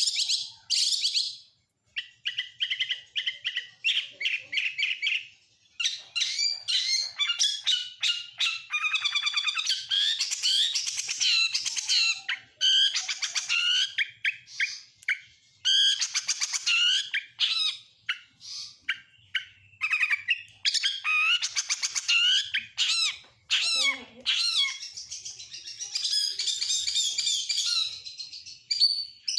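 Oriental magpie-robin (kacer) singing a long, varied song packed with mimicked phrases of other birds: quick trills, rapid stuttering runs of notes and whistled slurs follow one another with only brief pauses.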